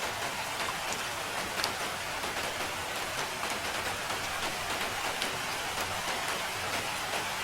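Steady rain falling, an even hiss with many small scattered drop taps.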